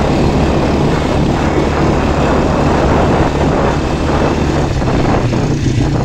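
Quad bike engine running steadily under way, with a continuous rushing noise over it.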